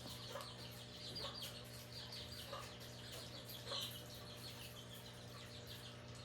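Chickens clucking faintly, with rapid high chirping running throughout and a lower falling call about once a second.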